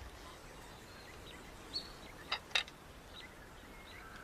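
Quiet outdoor ambience: a steady hiss with scattered short bird chirps and a few sharp clicks about halfway through.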